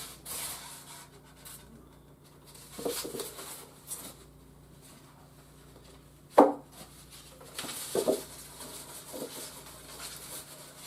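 Hands handling toy packaging: intermittent rustling and light knocks, with one sharp knock about six and a half seconds in and a smaller cluster of knocks about a second later.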